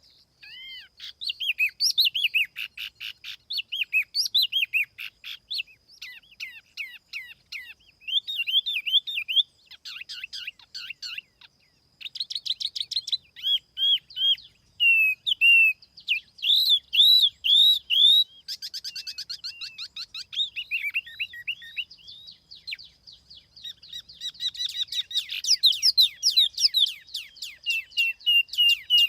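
Tiểu mi songbird singing a long, varied song of quick chirps, slurred whistles and rapid trills, with only brief pauses. It is a clean lure-call recording with no background noise.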